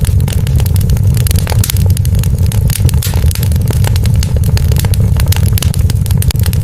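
Wood fire burning with a steady low rumble and many quick, irregular crackles and pops.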